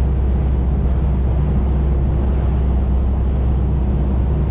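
Boat under way: its engine drones steadily and low, with wind buffeting the microphone and water rushing past the hull.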